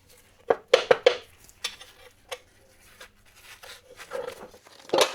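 Small steel fasteners from a motorcycle engine cover clinking as they are handled: a quick run of sharp metal clinks about half a second to a second in, then scattered lighter ticks.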